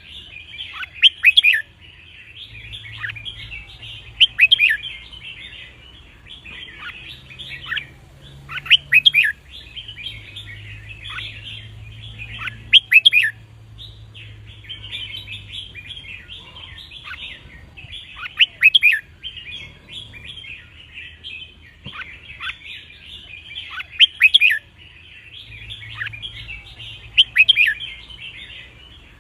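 Red-whiskered bulbuls singing: continuous chirping chatter, broken every three to five seconds by a louder, sharp whistled song phrase, about seven in all.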